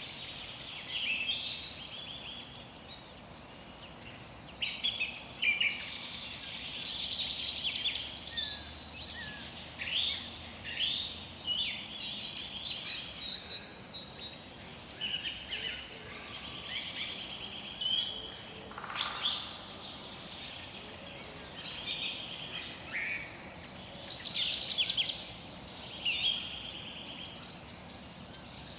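Songbirds singing: quick runs of high, rapidly repeated chirps and twittering phrases follow one another, over a faint steady hiss.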